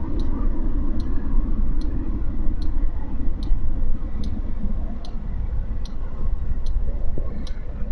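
Motorcycle ride noise: a steady low rumble of engine and wind, with a sharp tick repeating evenly about every 0.8 seconds.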